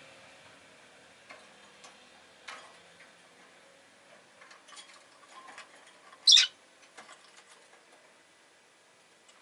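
Rosy-faced lovebird giving one short, loud, shrill chirp about six seconds in, amid scattered faint clicks and ticks.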